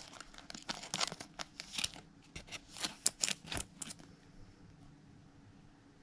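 Baseball trading cards being handled: a run of quick clicks and slides of card stock and plastic for about four seconds, then it stops.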